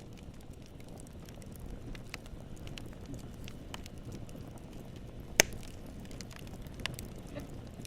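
Campfire burning: a steady low rumble of flames with scattered crackles of splitting wood, and one loud sharp pop about five and a half seconds in.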